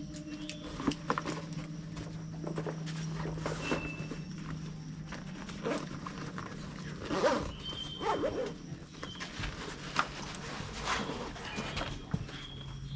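Outdoor walking sounds: irregular footsteps and knocks, with a few short, high chirp-like notes and a steady low hum underneath.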